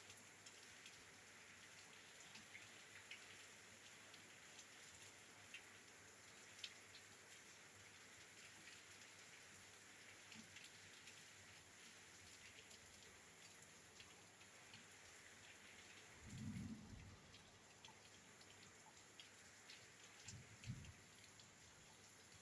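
Faint rain falling steadily against a window: an even hiss dotted with the ticks of single drops. A brief low rumble comes about three-quarters of the way in, and a shorter one follows near the end.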